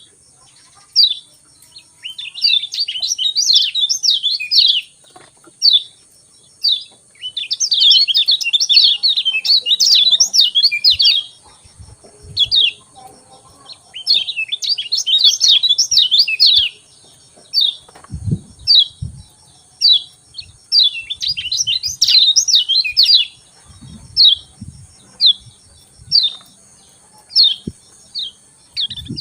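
Kecial kuning (a white-eye) calling: sharp, high "ciak" chirps repeated about once a second, broken four times by a few seconds of rapid twittering song. A faint steady high tone sits behind, with a few soft low thumps late on.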